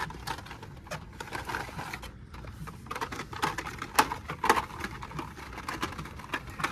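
Blister-carded die-cast toy cars clacking and rustling as they are flipped through and handled, many sharp irregular clicks, the loudest about four and four and a half seconds in.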